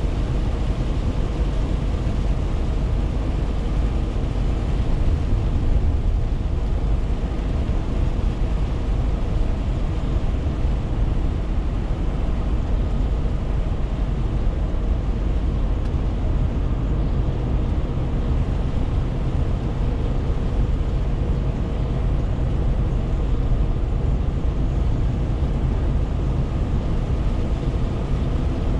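Renault T520 truck under way: a steady rumble of engine, tyre and wind noise with no changes in pace.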